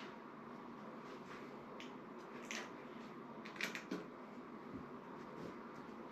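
Faint handling noises from a makeshift grounding wire and clip being fitted: a handful of soft clicks and rustles, the clearest a little past halfway.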